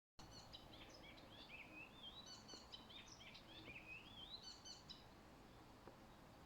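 A songbird singing a fast, varied song of short chirps and slurred whistles, faint, for about five seconds before it stops.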